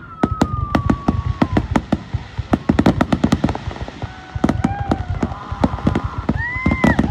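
Fireworks barrage: a dense, rapid run of sharp bangs and cracks, several a second, with high whistling tones gliding up and down over them.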